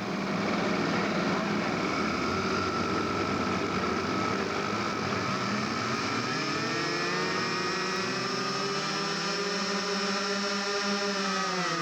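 The four OS .61 glow engines of a model B-17 running together on the ground, a buzzing blend of several engine notes. Over the second half their pitch swells a little higher and drops back near the end.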